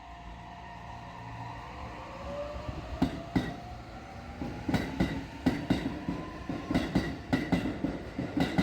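Electric commuter train pulling away: its traction motors whine with a rising pitch, then the wheels click over rail joints in pairs, coming faster and louder as it gathers speed.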